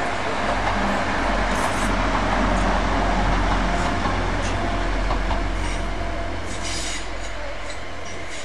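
A train running slowly past close by on the station tracks: a rumble of wheels on rail that swells and then eases, with brief high wheel squeals near the end.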